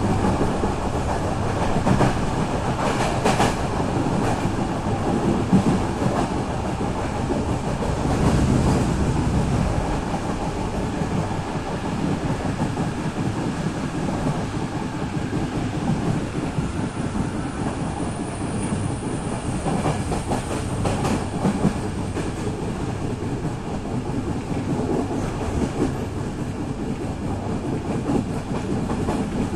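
Passenger train running at speed, heard from inside the carriage: a steady rumble of wheels on rails with a few knocks as the wheels cross rail joints, and a faint high whine partway through.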